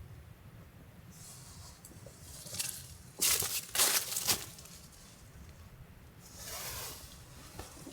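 Rustling and crunching in a few short bursts, the loudest about three to four and a half seconds in, with a softer stretch near the end.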